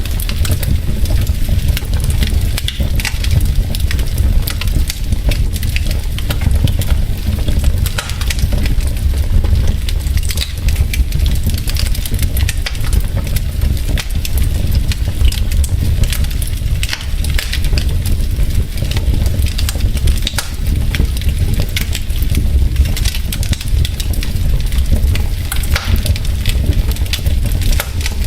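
Logs burning in a fireplace, crackling with many small sharp pops over a steady low rumble.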